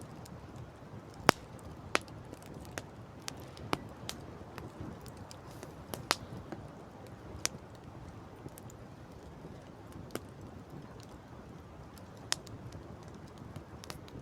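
Wood campfire crackling, with sharp irregular pops scattered through it, the loudest about a second in, over a steady low background rush.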